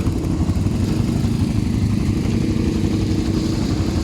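ATV engine running at a steady pitch.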